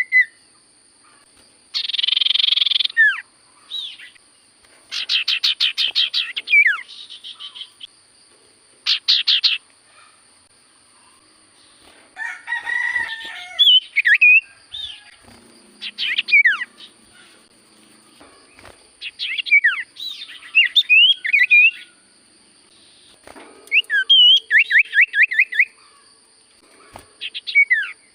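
Iora (cipoh) singing loud, varied song phrases of whistled downward sweeps and fast trills, in bursts every one to three seconds.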